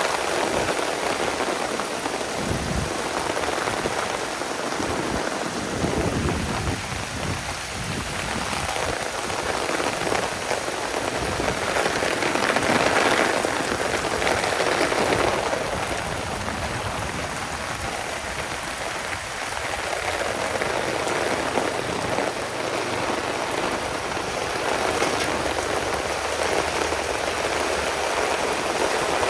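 Heavy rain pouring down in a steady, dense hiss that swells louder about halfway through.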